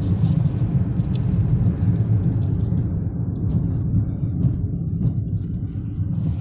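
A loud, steady low rumble, its higher hiss thinning out about halfway through.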